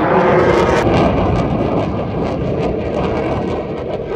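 Loud roar of an aircraft flying past at an airshow, easing off toward the end.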